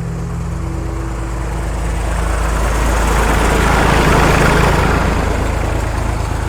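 Uniforest Titan 43/20 firewood processor running with a steady low machine hum. A broad rush of noise swells up through the middle and eases off again.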